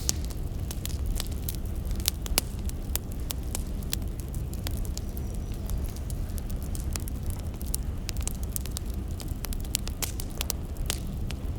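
Firewood burning: irregular snaps and pops of crackling logs over a low steady rumble.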